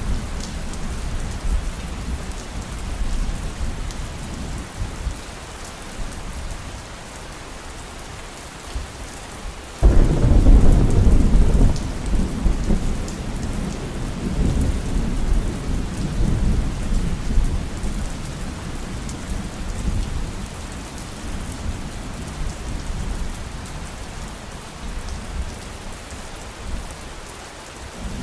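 Steady heavy rain falling. About ten seconds in, a sudden loud clap of thunder breaks in and rolls on as a low rumble, fading over the following several seconds.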